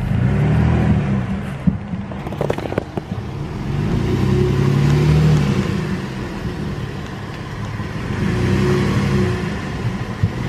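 Car engine rising and falling in three swells as the car reverses on a flat tyre, with a few clicks early on.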